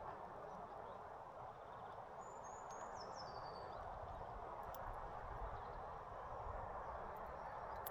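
Steady outdoor background noise with a short high bird call about two seconds in, falling in pitch in a few quick steps, and a few faint clicks later on.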